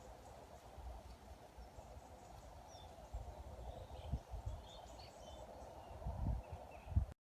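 Small birds chirping faintly now and then over a steady low hiss, with a few dull low thumps near the end.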